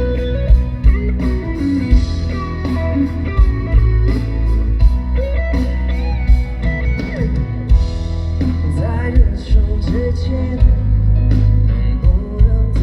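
Live band music amplified through a PA: drums keeping a steady beat under bass and electric guitar, with a sung melody line over them.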